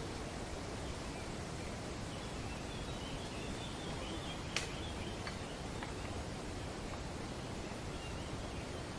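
Steady rustle of wind through tree leaves, with faint scattered bird chirps in the background. One sharp click about halfway through, followed by two fainter ticks.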